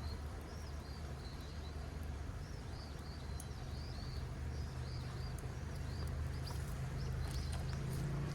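Small birds chirping again and again in short rising-and-falling calls, over a steady low rumble.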